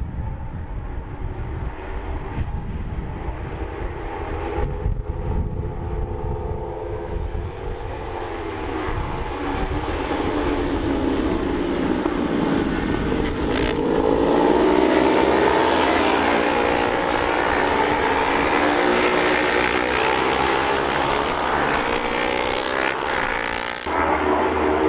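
Honda CB500 race bikes with parallel-twin engines running hard on track, several at once. They grow louder about halfway through, their pitch dipping and then climbing as they slow and accelerate again.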